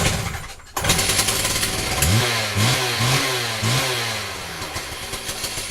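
STIHL TS360 cut-off saw's two-stroke engine pull-started, catching about a second in. It is revved in four quick blips and then settles to a steady idle.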